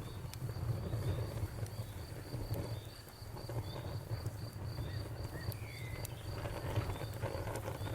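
Crickets chirping in a steady, even rhythm of about three chirps a second over the low rumble of a burning bonfire, with a few sharp crackles from the fire.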